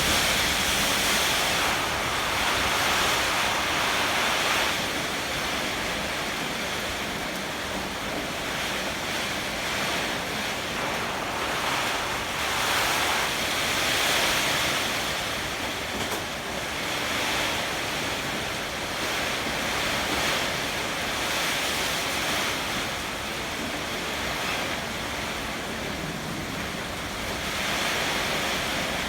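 Heavy typhoon rain pouring with strong wind, a dense steady rush that swells and eases every few seconds, with some wind buffeting the microphone.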